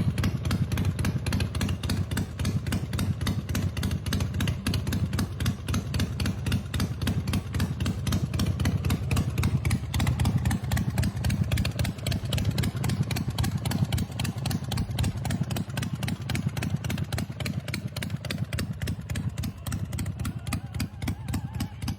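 2005 California Motorcycle Company Devastator's 113 ci V-twin engine idling steadily.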